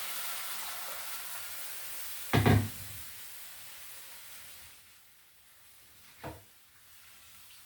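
A steady hiss from the pan of dry-fried omena fades away, broken by a loud knock about two and a half seconds in and a lighter knock near the end, like a pot or utensil being handled.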